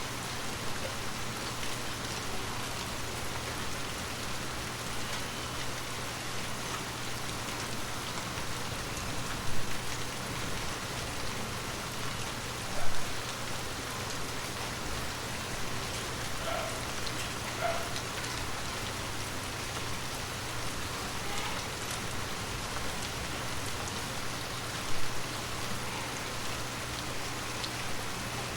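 Steady heavy rain falling on a hard surface, an even hiss of many drops. Three brief louder taps stand out, about a third of the way in, a few seconds later, and near the end.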